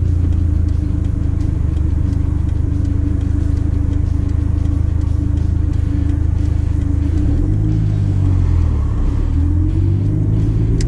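Mitsubishi Lancer Evolution VIII's turbocharged 4G63 inline-four idling steadily, heard from inside the cabin; near the end the engine note rises and falls twice as the car creeps forward.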